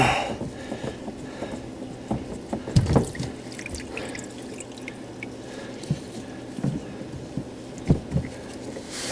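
Water dripping and trickling from a disconnected dishwasher drain hose onto a rag, with a few sharp knocks about three and eight seconds in as the hose and fittings are handled.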